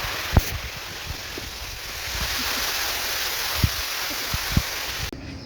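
Steady rushing outdoor noise with a few short low thuds, cut off suddenly near the end.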